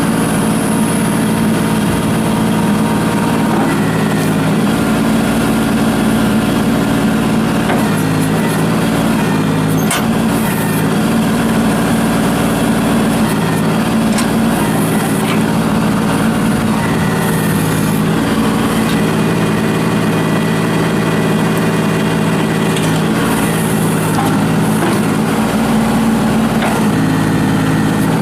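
2007 Kubota L39 tractor's diesel engine running steadily at a constant speed.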